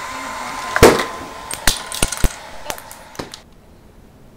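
Hair dryer blowing with a steady whine, switched off a little after three seconds in. Over it, a loud sharp clack about a second in, then a run of lighter clicks and knocks from small hard parts of the contraption striking each other.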